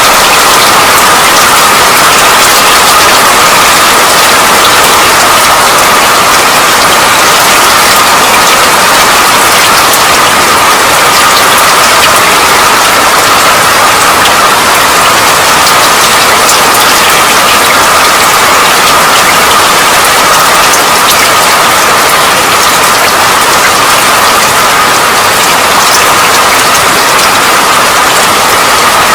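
Steady rain: an even, unbroken hiss dotted with countless small drop ticks, at a constant level.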